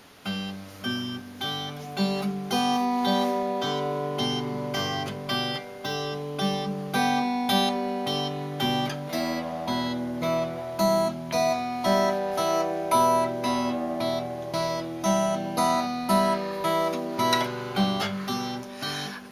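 Acoustic guitar strummed in waltz time, a steady run of chords as a song's instrumental intro.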